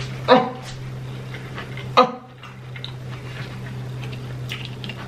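Close-miked chewing of fried chicken tenders: small wet mouth clicks, with two short, sharper bites or smacks about a third of a second in and about two seconds in, over a steady low hum.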